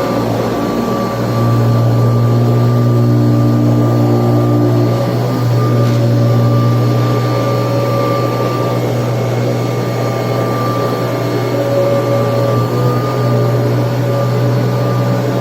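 Kirby Tradition upright vacuum cleaner running steadily while vacuuming: a loud low hum with a steady whine above it, dipping briefly about a second in.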